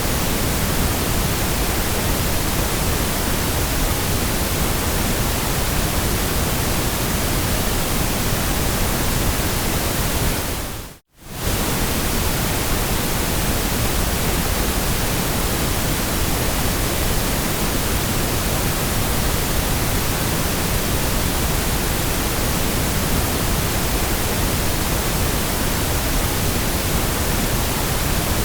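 Steady, even synthetic noise of a sleep-noise track, a hiss spread evenly from low to high pitch with no tones or rhythm. About eleven seconds in it briefly fades down to near silence and comes straight back.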